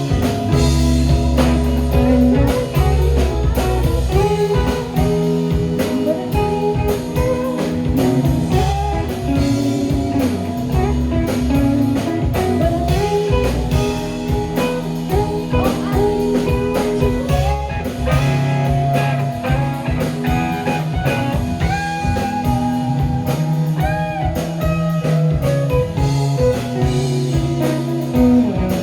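Live rock band playing, with guitar over a drum kit and steady drum hits throughout.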